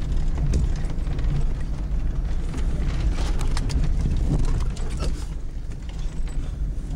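GMC Jimmy driving on a rough trail: a steady low engine drone with scattered creaks, clicks and rattles from the body and suspension.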